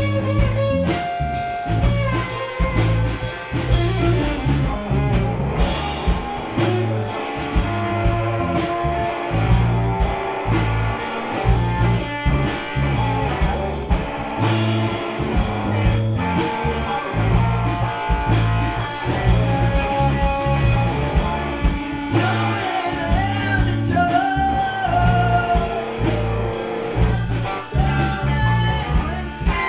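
Live gypsy rock band playing over a steady beat of drums and bass, with guitar and singing.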